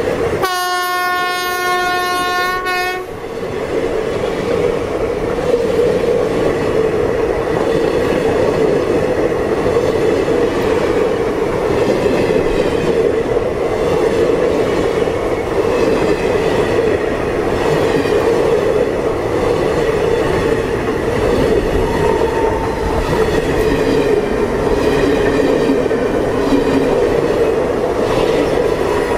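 A train horn sounds one steady note for about two and a half seconds at the start and cuts off. Under it, and on alone afterwards, comes the steady loud rumble of passenger coaches' wheels rolling on the rails close by.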